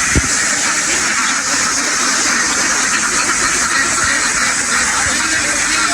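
A large flock of domestic ducks quacking all together in a dense, steady mass of calls. A single thump comes just after the start.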